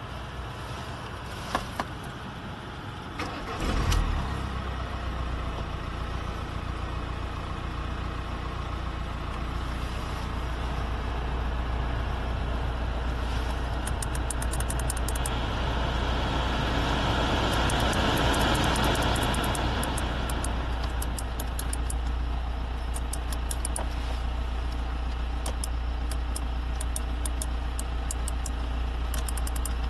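Audi A4 2.0 TDI four-cylinder turbodiesel engine starting about four seconds in, after a few clicks, then idling steadily with a low hum. A broad swell of noise rises and falls around the middle.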